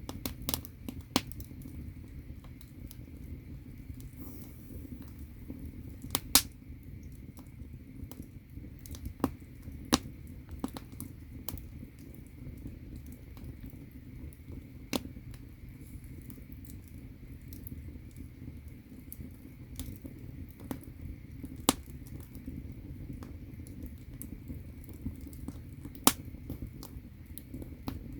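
Firewood burning in a Korean agungi firebox under an ondol floor: a low steady rumble of the fire with irregular sharp crackles and pops, the loudest about six seconds in.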